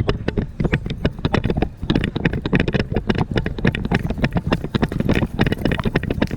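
Horse's hoofbeats in a quick, steady rhythm under a rider, several impacts a second without a break.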